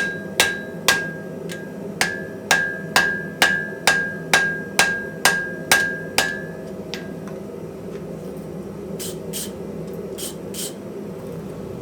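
Hand hammer striking metal on an anvil at a steady pace of about two blows a second, each blow leaving a bright ringing tone, with a short pause about a second and a half in. The blows stop a little past six seconds. A few lighter taps follow near the end, over a steady low hum.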